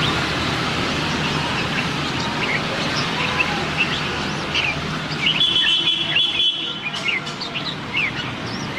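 Red-whiskered bulbuls calling: a stream of short, quick chirps and whistled notes, with a held buzzy trill about halfway through that lasts a little over a second. A steady low background rumble sits under the first half.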